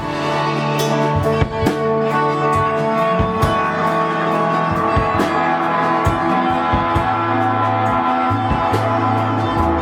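Live unplugged band playing an instrumental passage: sustained guitar over steadily repeating percussion hits.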